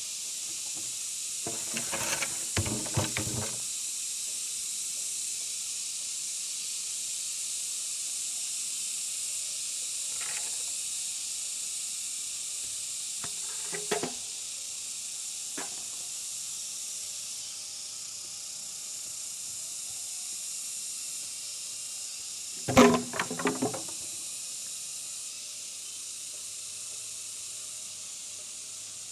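A steady high hiss throughout, broken three times by short clusters of knocks and thuds: about two seconds in, around fourteen seconds, and loudest around twenty-three seconds.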